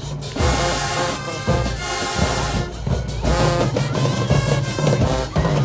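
High school marching band playing, with brass holding notes over a steady drum beat.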